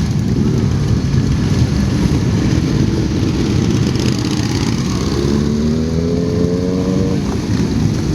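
Motorcycle engines rumbling together, one engine rising in pitch as it accelerates from about five seconds in.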